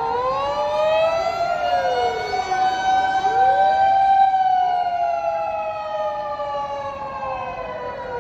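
Fire engine siren wailing: a slow rise to a peak about four seconds in, then a long slow fall, with other siren wails overlapping it.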